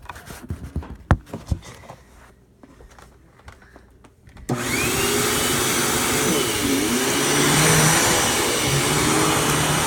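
A few knocks and clicks, then about four and a half seconds in a Hoover FoldAway upright vacuum cleaner with a 12-amp motor switches on and runs steadily and loudly.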